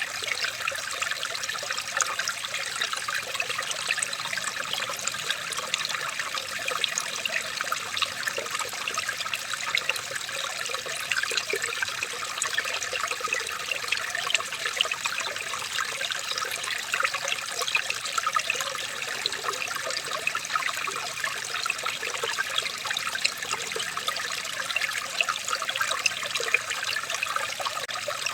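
Running water trickling steadily, with a dense patter of small splashes.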